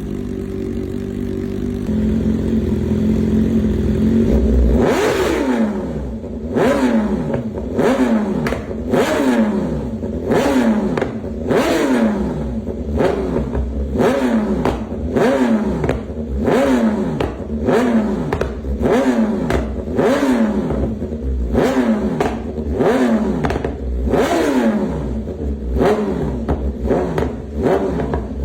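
BMW M1000RR's inline-four engine, warming up after a cold start. It idles steadily at first, then from about five seconds in is revved in quick, repeated throttle blips. Each rise in revs falls back, roughly one a second.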